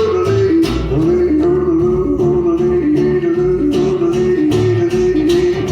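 A western band playing the closing bars of a cowboy song live: acoustic guitar strumming a steady rhythm under a slowly stepping, held melody line.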